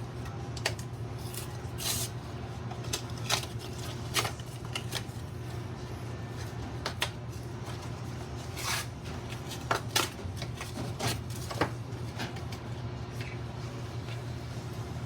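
Cardboard and plastic packaging of a razor set being handled and opened, with irregular rustles and light clicks, over a steady low hum.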